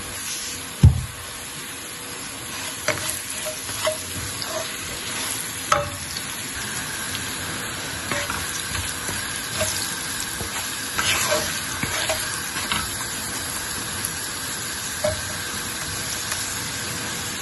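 Sliced onions and ground spices frying in oil in a pan, a steady sizzle, while a wooden spoon stirs and scrapes through them with scattered light knocks against the pan. A single heavy thump about a second in.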